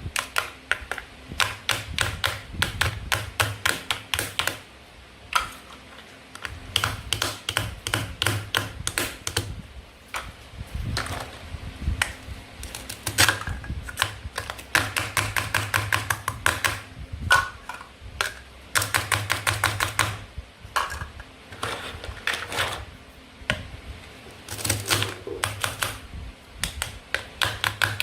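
Bursts of rapid light plastic clicks and taps, several a second, from toy play-food pieces being handled and cut with a toy knife.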